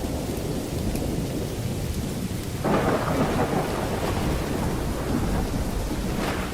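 Steady heavy rain with a continuous low rumble of thunder. About two and a half seconds in, a sharper, brighter thunderclap breaks in and rolls on, slowly fading.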